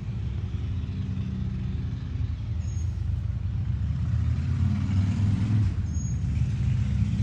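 Low, steady rumble of a large motor vehicle's engine running, growing louder in the second half.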